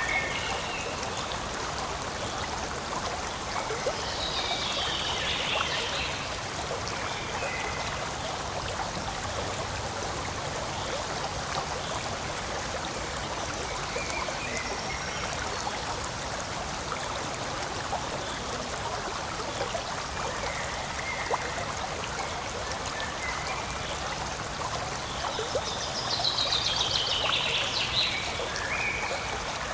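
Forest stream flowing and trickling steadily. A few brief high-pitched calls come through about four to six seconds in and again near the end.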